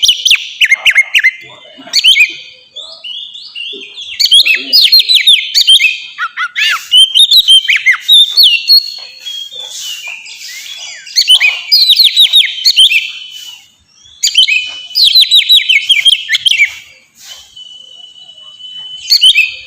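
Oriental magpie-robin (kacer) singing in full, open voice: bursts of rapid, sweeping whistled notes and varied phrases with short pauses between them, and a single held whistle near the end.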